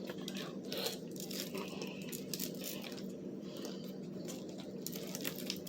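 Fried chicken and its packaging being handled and picked at, with scattered small crackles, clicks and rustles over a steady low hum.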